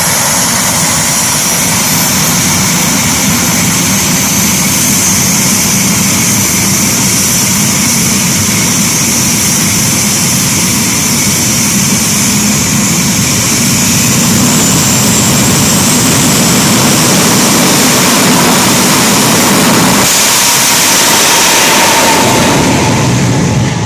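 Jet truck's three turbine engines running steadily with a high whine over a loud roar; the whine brightens about 20 seconds in and the sound drops off at the very end.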